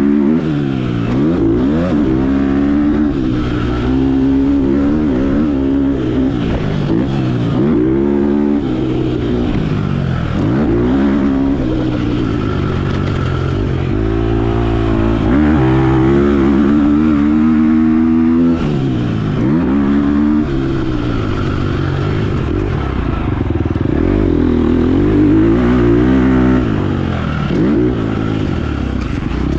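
Motocross bike engine being ridden hard. It revs up repeatedly and drops back sharply between pulls, about every two to three seconds, as the throttle is opened and shut and the gears change.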